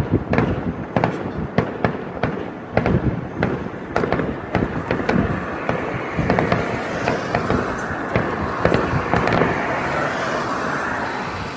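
Fireworks going off: a rapid run of sharp bangs and cracks that, after about six seconds, merges into a dense crackling hiss and fades near the end.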